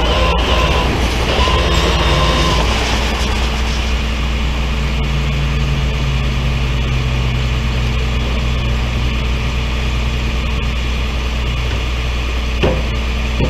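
A vehicle engine running steadily with a low rumble and a constant low drone. A single sharp click comes near the end.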